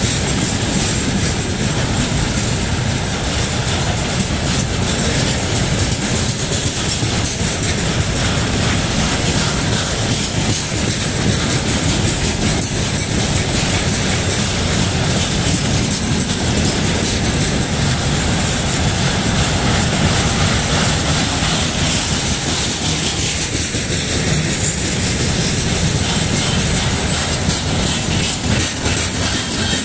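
Freight train of railway tank cars and a hopper car rolling past close by: a steady loud rumble of wheels on the rails with the clickety-clack of the wheels over rail joints and a steady high hiss above it.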